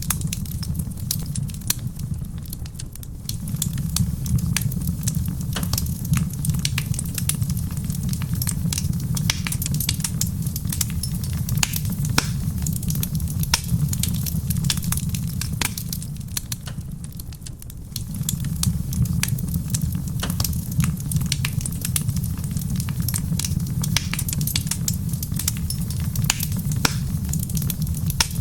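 Wood fire crackling in a stone fireplace: many sharp pops and snaps over a steady low rumble. The rumble dips briefly about three seconds in and again around seventeen seconds.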